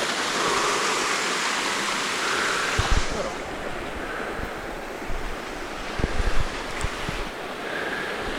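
Steady rushing noise of running water, its hiss thinning out about three seconds in, with a few low thumps of wind buffeting the microphone, once near three seconds and several times around six to seven seconds.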